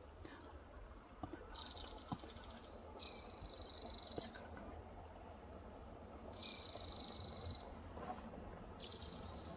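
A small songbird singing a short, high trilled song four times, each about a second long and coming every two to three seconds; the middle two songs are the loudest.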